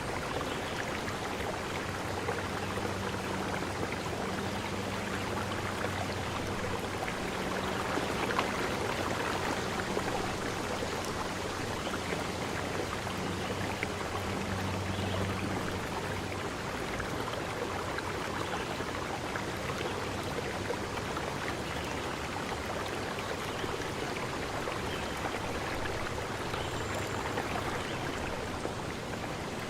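A stream running steadily, an even rush of water. A faint low hum sits under it for the first half, then fades out.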